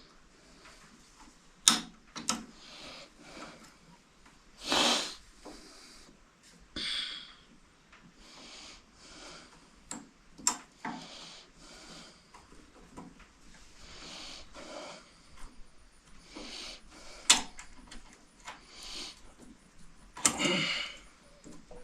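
Scattered sharp clicks and knocks with a few short scraping noises, as of tools and metal parts being handled during hands-on repair work.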